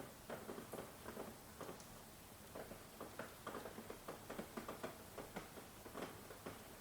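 Rain falling: irregular drops tapping several times a second over a faint steady hiss.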